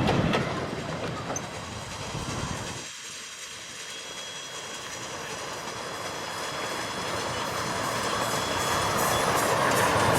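Grand scale 16-inch gauge steam train rolling on its track with wheels clicking over the rail joints. The sound drops off suddenly about three seconds in, then swells steadily louder as a train comes closer.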